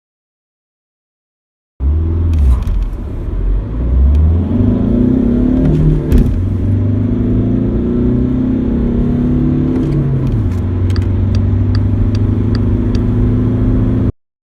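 Skoda Octavia Mk3 engine accelerating hard from standstill: the engine note rises, drops at a gear change about four seconds after it starts, climbs again, and shifts once more near the middle before running on steadily. A row of light ticks, about two a second, sounds near the end.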